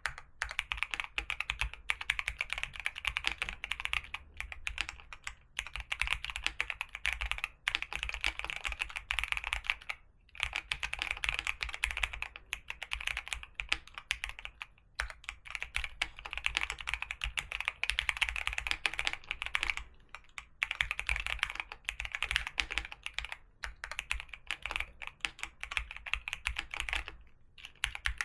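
Continuous fast typing on a keyboard, a dense run of crisp key clicks with brief pauses between bursts.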